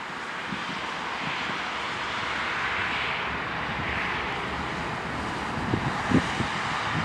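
Freight train rolling past: steady wheel-on-rail noise that swells slightly partway through. Low wind thumps on the microphone come near the end.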